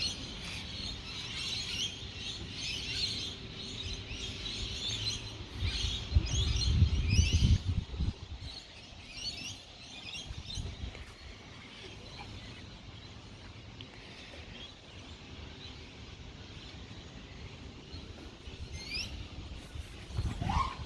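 Small birds chirping and twittering in quick repeated calls, busiest in the first half and sparser later. A low rumble sits under them between about six and eight seconds in.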